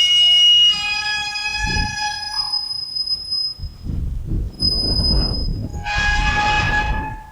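Farm windmill turning in gusts of wind, its metal workings screeching and creaking in long, held squeals that drop to a lower pitch about a second in. Wind gusts rumble on the microphone under the squeals.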